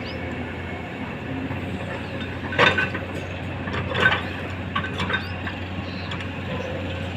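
Komatsu excavator's diesel engine running steadily while stone is loaded into a steel tipper body, with loud clanks of rock striking metal about two and a half and four seconds in, and lighter clinks between.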